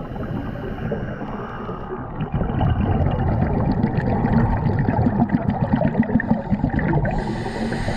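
Water bubbling and gurgling, which gets louder about two seconds in, with a brief hiss near the end.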